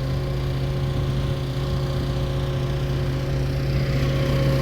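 An engine running steadily at a constant speed, a level droning hum that grows slightly louder near the end.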